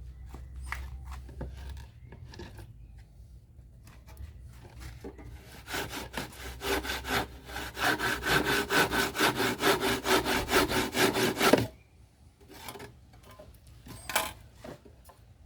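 Hand saw cutting through the side panel of a homemade speaker box in fast, even back-and-forth strokes. A few knocks come first, then the sawing runs for several seconds and stops abruptly near the end.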